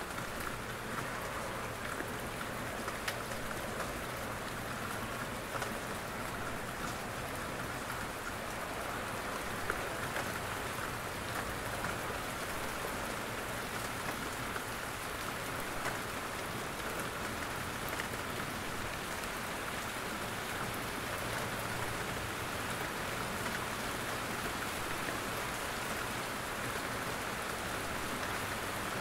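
Steady rain falling in a forest, with scattered single drops from the trees landing as sharp ticks over the even hiss.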